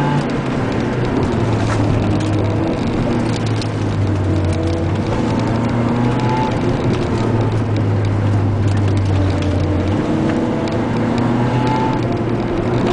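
A car engine and road noise heard from inside the cabin, the engine note dropping and rising as the driver eases off and back onto the throttle through the corners.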